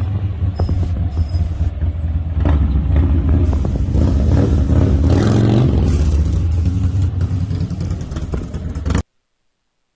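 Motorcycle engine running and revving during stunt riding, cutting off abruptly about nine seconds in.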